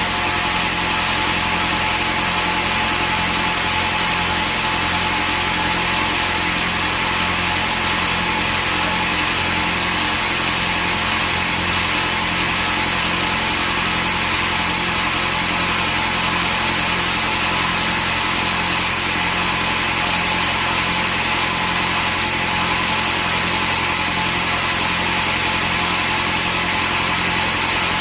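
Sawmill machinery running steadily: an even engine-like drone with a hiss over it. It neither rises nor falls, and no cut is heard.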